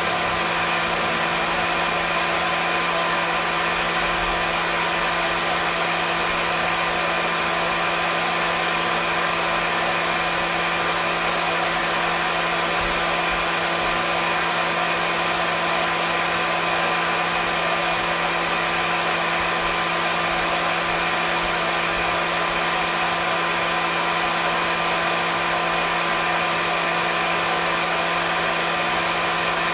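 Hair dryer running steadily: a constant rushing airflow with a steady motor hum and whine underneath, unchanging throughout.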